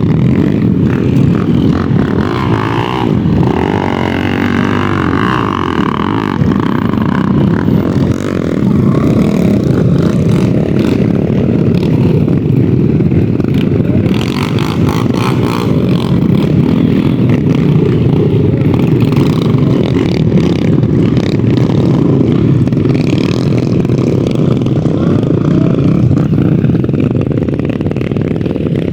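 Dirt bike engines running and revving on a muddy trail, with pitch rising and falling in the first few seconds.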